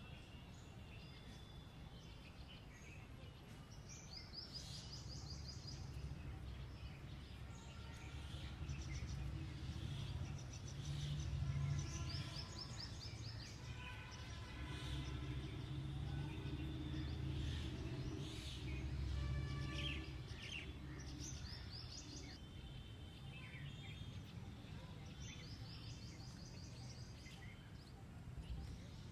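Birds singing and calling, with one short, fast trill repeated every several seconds among scattered chirps, over a steady low rumble that swells and eases in the middle.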